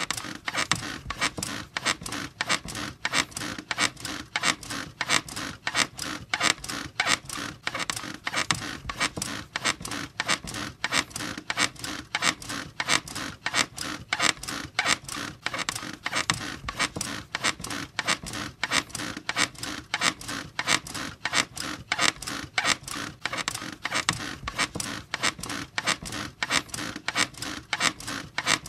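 Bed squeaking in a fast, even rhythm, about three squeaks a second, as if someone is bouncing on it.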